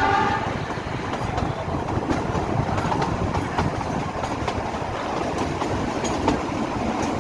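Narrow-gauge Kalka–Shimla toy train running, a steady rumble with the clatter of wheels over the rails, heard from on board. A horn note dies away about half a second in.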